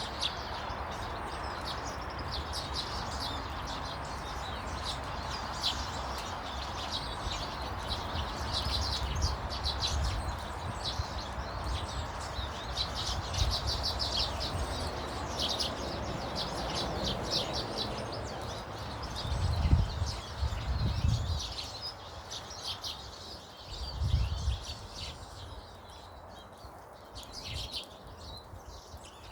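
Small garden birds chirping and twittering in a rapid, busy chorus, thinning out near the end, over a steady background hiss. Two low rumbles come about two-thirds of the way through.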